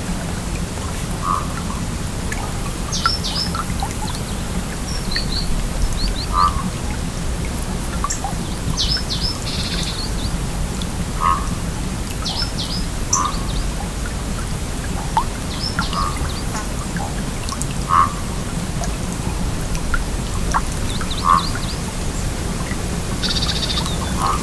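A flowing stream with a steady rush of water and short gurgles every second or two. Brief high chirps in twos and threes come through here and there.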